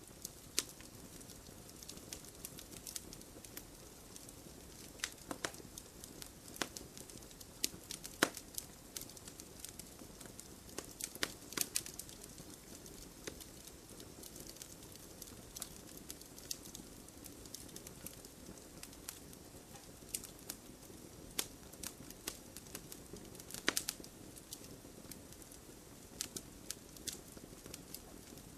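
Wood campfire crackling: a steady low rush of burning with frequent sharp pops and snaps, a few of them louder.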